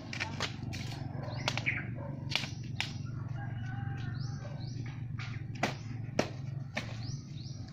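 Small birds chirping in short repeated calls, with sharp taps and clicks scattered throughout and a steady low hum underneath.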